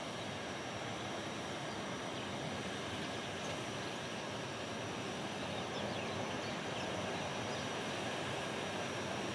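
Hitachi Class 803 electric train approaching slowly: a steady hiss of running noise with a faint high whine, growing slightly louder.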